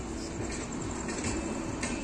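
Passenger train coaches running past on the rails without stopping: a steady rumble of wheels on track, with a faint click near the end.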